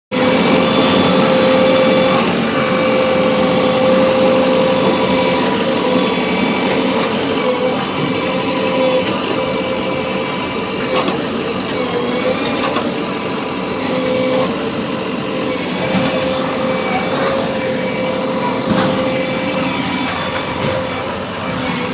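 A heavy machine's diesel engine running steadily under a constant high whine, with small rises and dips in level.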